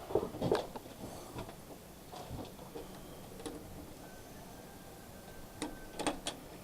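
Handling noise: scattered light knocks and clicks, with a quick cluster of sharp clicks near the end.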